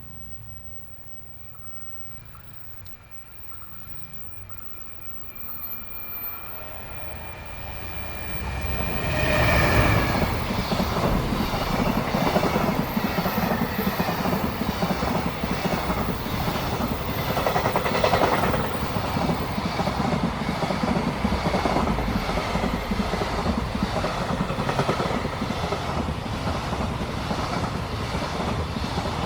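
Freight train approaching and passing close by: a rising rumble with a thin steady whine over the first ten seconds, then the loud, even clickety-clack of a long string of wagon wheels over the rail joints.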